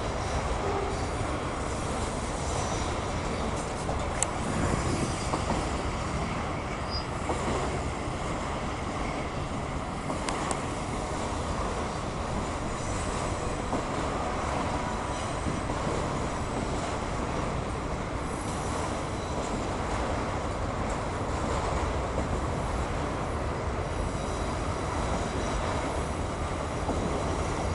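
Freight train of enclosed autorack cars rolling past: a steady rumble of steel wheels on rail, with a few sharp clicks and faint high-pitched wheel squeal now and then.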